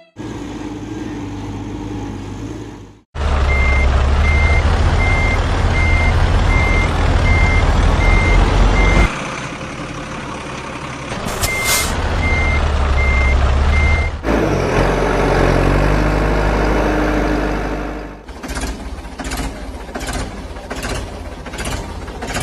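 A heavy diesel vehicle's reversing alarm beeping at a steady pitch about twice a second over a loud engine rumble. The beeping comes in two stretches, with the engine running on between them.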